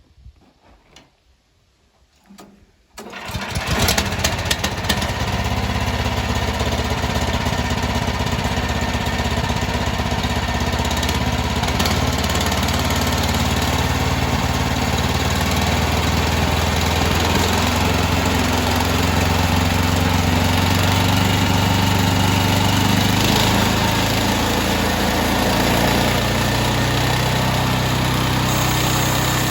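A portable sawmill's small engine starting about three seconds in, then running steadily at a loud, even speed.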